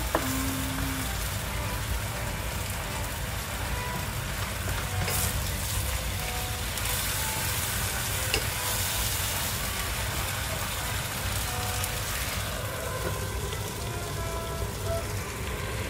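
Broccoli and beef sizzling in a frying pan while a wooden spatula stirs them. The sizzle grows brighter in the middle, then turns quieter about three quarters of the way through as a glass lid goes on the pan.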